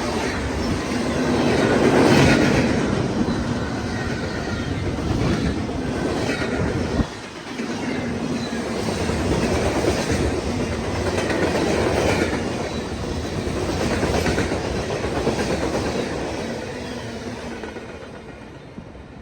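CSX freight train rolling past, its wheels clacking over rail joints in repeated swells, with a sudden brief dip about seven seconds in and fading near the end as it moves away.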